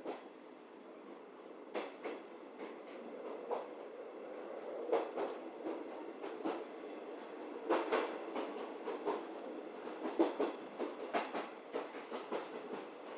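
711-series electric multiple unit heard from inside the carriage. Wheels knock over rail joints and the running noise swells, with the clicks growing louder and more frequent as the train picks up speed.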